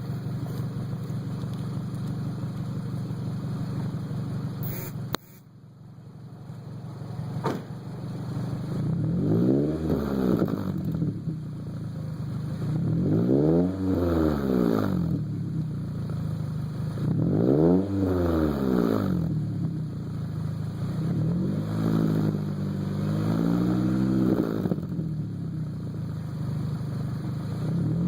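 Scion tC four-cylinder engine running through a Megan Racing Drift Spec exhaust with an Invidia S-pipe. It idles steadily, then is revved up and let fall back about four times, roughly every four seconds, the last as a pair of short blips. A click and a sudden drop in level come about five seconds in.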